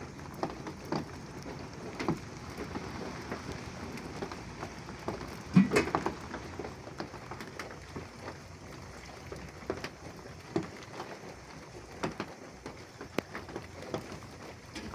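Steady rain falling, with scattered individual drops tapping sharply on a surface, a few louder drips about five to six seconds in.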